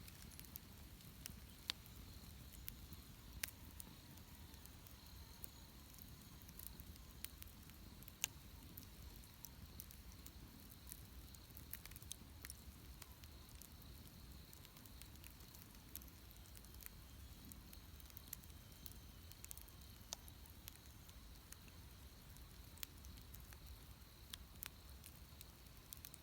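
Wood bonfire crackling faintly, with scattered sharp pops over a low, steady rumble.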